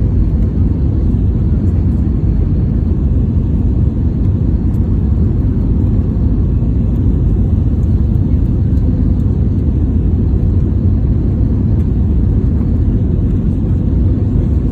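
Steady low rumble of an airliner cabin in flight: engine and airflow noise heard from inside the plane, unchanging throughout.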